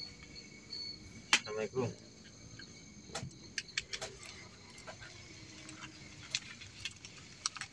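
Crickets trilling steadily in a high, unbroken tone, with scattered sharp clicks and taps, the loudest a little over a second in.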